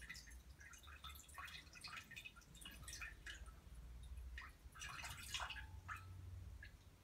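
Battery-powered Tide Juniors Home toy washing machine starting its spin: a faint steady motor hum under many small irregular drips and ticks of water in the drum.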